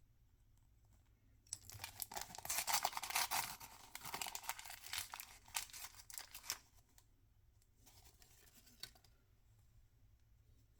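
Toy packaging being torn open and crinkled by hand: a burst of rapid tearing and crackling for about five seconds, then a short, fainter crinkle.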